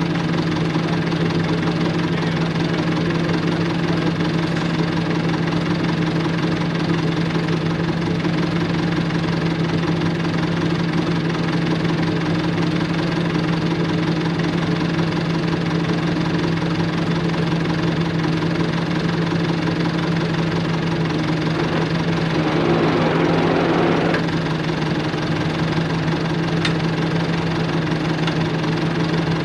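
John Deere 450 bulldozer's diesel engine idling steadily, with a brief louder stretch about three quarters of the way through.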